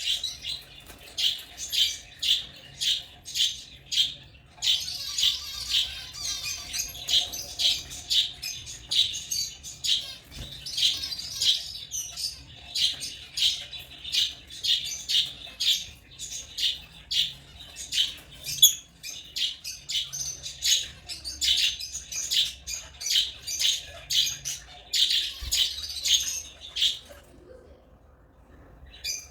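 African lovebirds chirping in rapid, repeated high chirps, about two a second, that stop about two seconds before the end.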